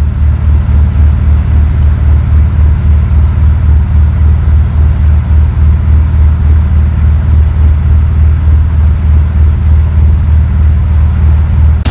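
1973 Corvette Stingray's V8 running steadily while driving, a loud low rumble that throbs evenly throughout.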